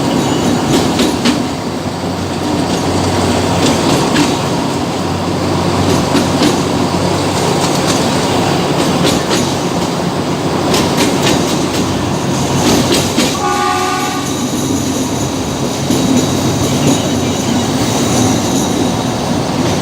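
Train running along the rails: a steady rumble with scattered clicks from the wheels over rail joints. A short horn sounds once, about two-thirds of the way through.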